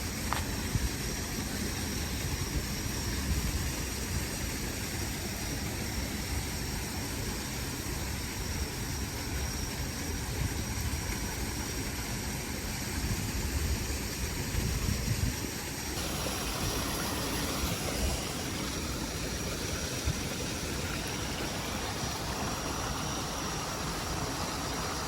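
Steady rain falling, a continuous even hiss, with the sound changing abruptly about sixteen seconds in.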